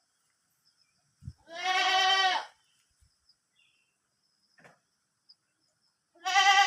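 Goat bleating twice, each call a long, wavering bleat, the two about four seconds apart. A short knock comes just before the first call.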